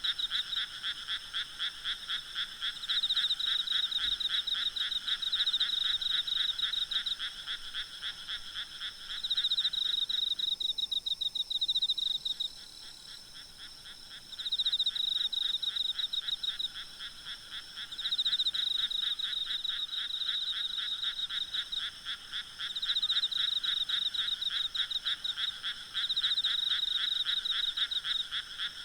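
Night chorus of frogs croaking in rapid, pulsing trains, mixed with insects calling. The chorus thins and grows quieter for a few seconds a little before halfway, then resumes at full strength.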